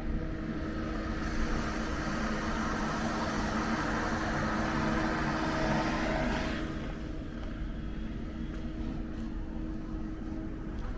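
A vehicle passing close by: its engine and tyre noise swells over a few seconds and drops off sharply about six and a half seconds in, over a steady low hum.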